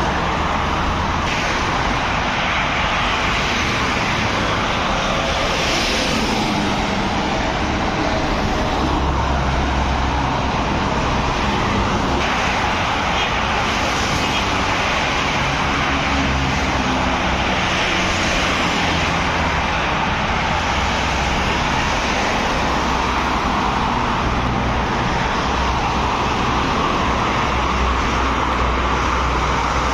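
Road traffic: engines and tyres of passing trucks and cars, a dense, steady noise with low engine rumble that swells and fades as vehicles go by.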